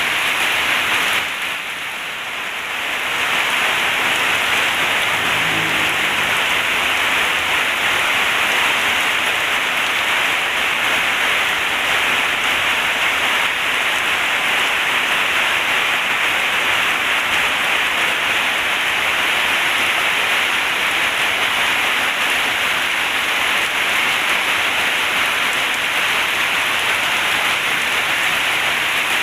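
Heavy rain falling in a steady, dense hiss that dips briefly in level about a second and a half in.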